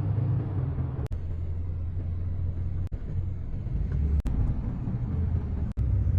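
Steady low engine rumble, with the sound cutting out for an instant about four times.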